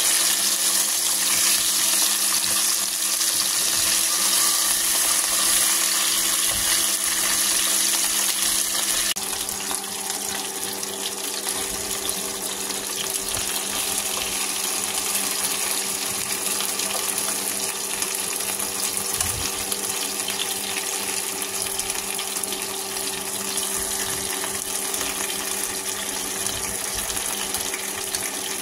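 Chicken wings sizzling in hot oil in a nonstick wok: a steady hiss over a low steady hum. The sizzle drops to a softer level about nine seconds in.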